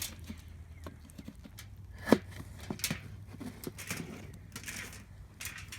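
Knife cutting food on a cutting board: irregular knocks, the loudest and sharpest about two seconds in.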